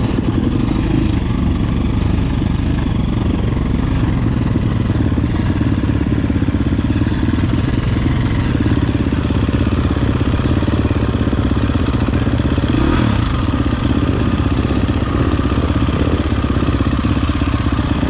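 Dirt bike engine running loud and steady, close up.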